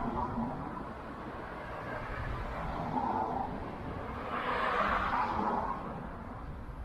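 Gusty wind buffeting the microphone with a low, uneven rumble, and a swell of rushing noise from about four to six seconds in.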